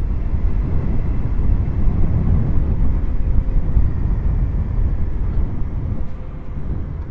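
Motorcycle riding sound from an onboard camera: heavy wind rumble on the microphone with the engine running underneath, easing a little about six seconds in.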